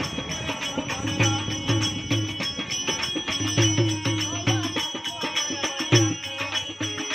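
Folk music with a steady, repeating drum beat and quick percussive strokes.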